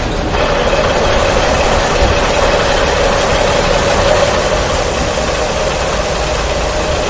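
A steady engine running sound with a constant mid-pitched hum and no change in speed.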